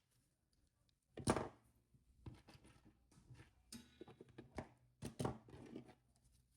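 Faint, irregular clicks and taps of jewellery pliers, wire and beads being handled while forming a wire loop, with one sharper click about a second in.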